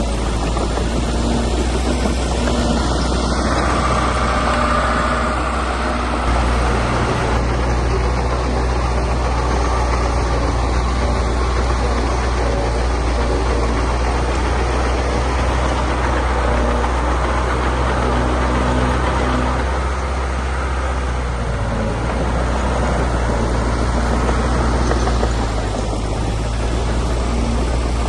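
Diesel engine of heavy earthmoving machinery running steadily, its note stepping up a little about six seconds in and easing off briefly around twenty seconds.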